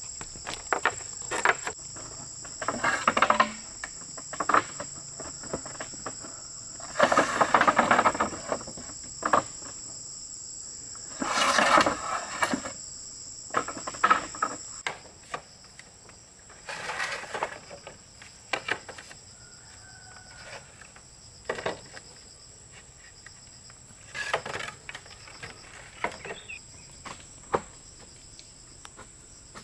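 A steady, high-pitched drone of rainforest insects that weakens about halfway through. Over it come irregular rustling bursts and short knocks, the loudest early on and near the middle, from hands-on work with bamboo and brush.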